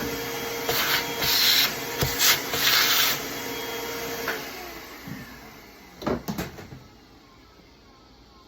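DeWalt shop vac running steadily, its nozzle sucking and rubbing at sawdust and grime on a chainsaw in several loud bursts. About four seconds in it is switched off and its hum falls away as the motor winds down, followed by a few knocks.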